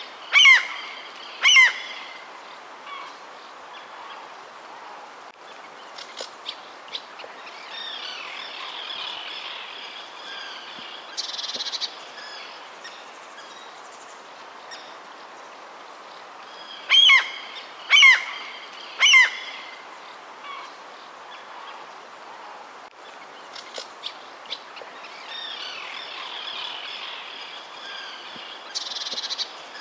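Birds calling: a set of three loud, falling calls in quick succession just after the start and again about halfway through, over steady chirping and twittering of smaller birds.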